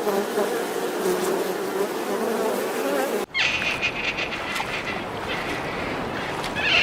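Flying insect buzzing with a steady hum. About three seconds in it cuts off abruptly, replaced by a different, higher-pitched chirring with rapid ticks.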